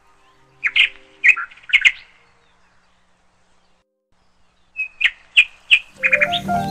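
A small bird chirping in short, sharp bursts, in two clusters with a pause of a couple of seconds between them. Music comes in near the end.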